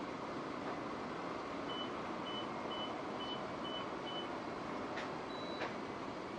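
Steady rain. Starting about two seconds in, six short high beeps of one pitch follow each other quickly at slightly uneven spacing, then two faint clicks with a brief higher beep between them.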